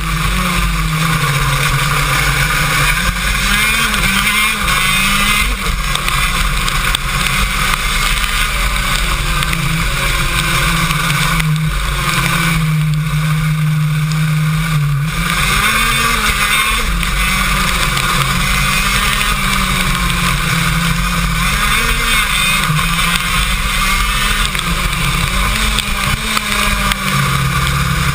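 KZ2 shifter kart's 125cc two-stroke engine heard onboard, its pitch climbing and dropping over and over through the rev range with gear changes, held at a steady high pitch for about three seconds midway.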